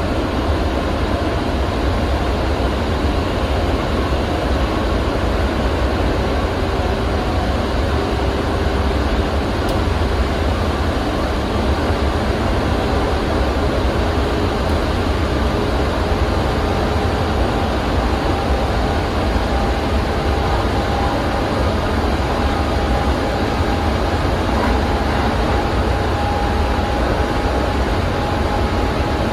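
Electric commuter train running through a long rail tunnel, heard from inside the passenger car: a steady, loud, deep rumble of wheels and running gear echoing off the tunnel walls. In the second half a faint whine rises slightly in pitch.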